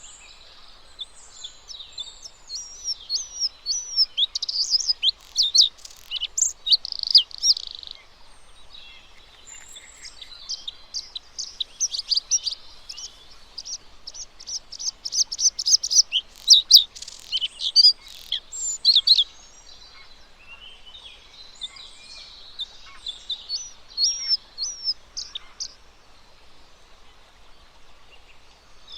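Bluethroat singing: rapid, varied high notes in three long bursts with short pauses between.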